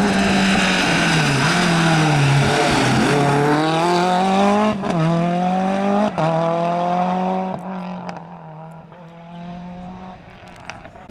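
Rally car engine: revs drop as it brakes and downshifts, then it accelerates hard up through the gears with a sharp crack at each of two shifts, and the sound fades as the car pulls away.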